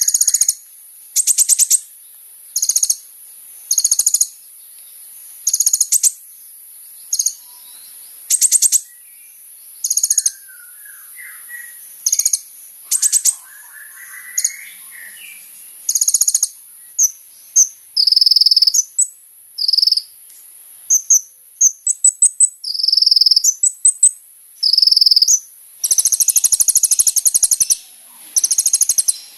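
Kolibri ninja sunbird singing: short, high, rapid trills repeated about every second and a half, then a run of clear, high whistled notes, and longer fast trills near the end.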